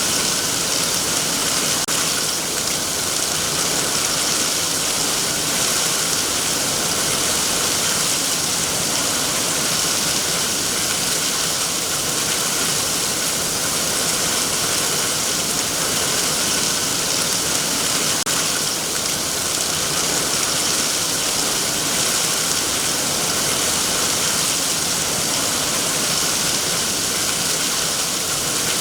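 Heavy rain falling steadily on trees and foliage, a dense, even hiss with no letup.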